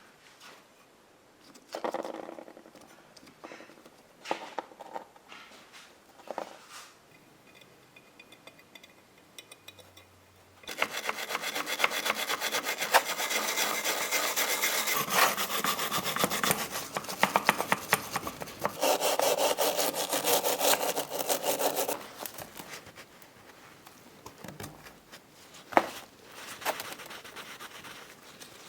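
Rapid back-and-forth abrasive scraping by hand, typical of rust-removal work on a hand plane's parts, runs for about eleven seconds in the middle. Scattered clicks and knocks of parts being handled come before and after it.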